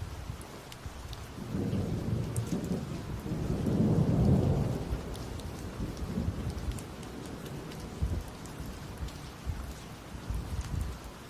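Thunder rumbling over steady rain. A low rumble builds after a second or so, is loudest near the middle and dies away, while raindrops tick throughout.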